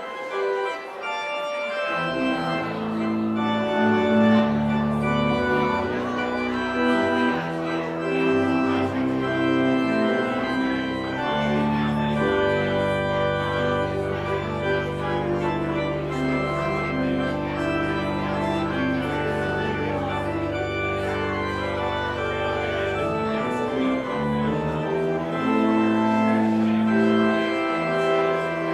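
Organ music: slow, sustained chords that change every second or two, over a long held bass note in the middle.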